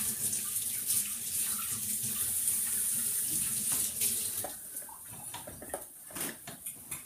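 Water running from a tap into a sink, with hands being washed under it. It stops about four and a half seconds in, and a few light knocks follow.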